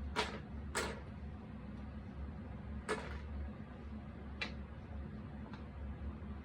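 Jigsaw puzzle pieces tapping and clicking as they are handled and set down: five short clicks, two close together at the start, then three more, each fainter than the last, over a steady low hum.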